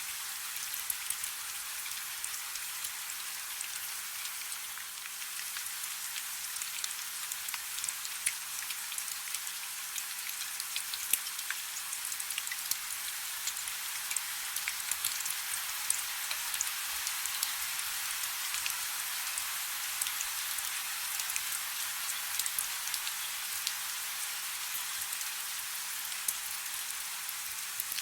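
Soft, steady rain: an even, high-pitched hiss full of many small, quick drop ticks.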